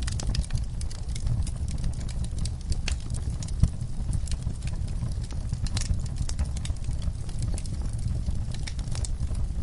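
Wood fire crackling in a fireplace: irregular sharp pops and snaps over a low, steady rumble of flame, with one louder pop about three and a half seconds in.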